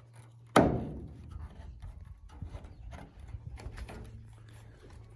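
A sharp metallic clack with a brief ring about half a second in, from the lock on a pigeon loft's trap being worked. Lighter clicks and rattles follow over a steady low hum.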